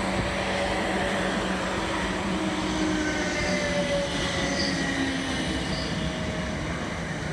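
Red South Western Railway suburban electric multiple unit passing close by: a steady rumble of wheels on the rails, with faint whining tones that shift in pitch, loudest in the middle as it goes past.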